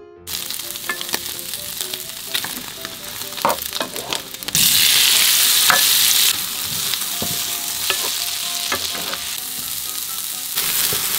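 Pork intestines (gopchang) sizzling as they fry in a nonstick pan, stirred with a wooden spatula that scrapes and clicks against the pan. The sizzle is loudest from about four and a half to six seconds in.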